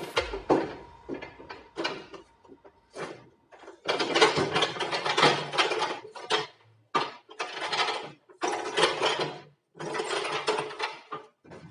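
Metal ratcheting mechanism clattering in repeated bursts of a second or two, with short pauses between them.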